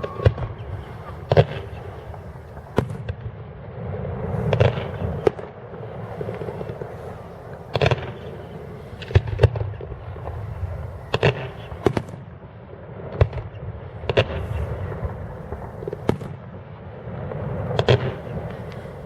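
Fireworks display: shells bursting in sharp bangs about every one to two seconds, over a steady low rumble between them.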